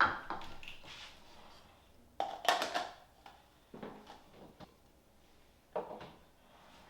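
Kitchen handling noise: cups and utensils being knocked and set down in a few separate clatters, the loudest about two and a half seconds in.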